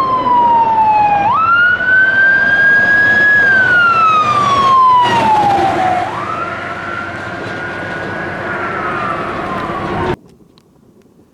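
Emergency vehicle siren wailing, its pitch sweeping slowly up and down in long cycles. It cuts off suddenly near the end.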